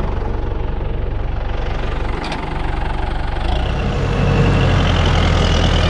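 Farm tractor engine running steadily, growing louder about three and a half seconds in.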